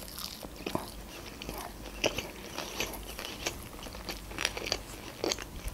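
A person chewing a bite of deep-fried tempura sushi roll: irregular soft crunches and small mouth clicks.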